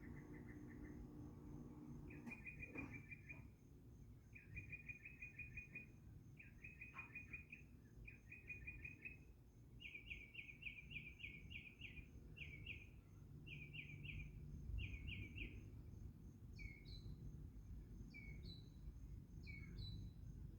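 A bird singing faintly: short phrases of rapid trilled notes repeated every second or two, followed near the end by single short whistled notes that slur downward.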